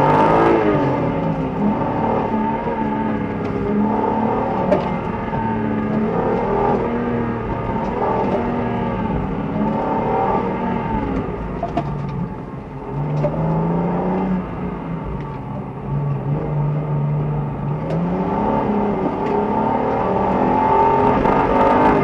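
BMW E90 330i's straight-six engine revving up and down under hard driving through a cone slalom, heard from inside the cabin. The engine note keeps climbing and falling, drops back a little past halfway, then climbs again near the end.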